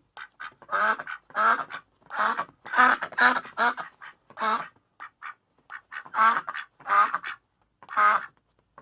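Duck quacking: about a dozen short, nasal quacks in irregular runs, with a lull of fainter short calls a little past the middle.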